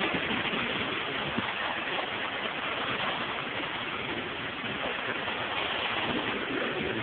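Water spraying steadily onto a car at a car wash, an even rushing hiss.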